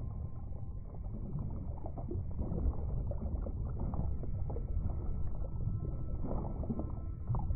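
Underwater sea-floor ambience: a steady low rumble with many small scattered clicks and crackles.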